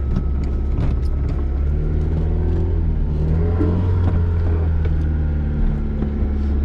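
Yugo hatchback's four-cylinder engine running steadily, heard from inside the cabin while it drives over rough grassy ground, with short knocks and rattles from the body and interior over the bumps.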